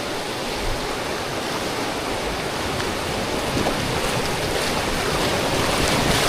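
River water rushing steadily, as on a stretch of rapids, growing slightly louder.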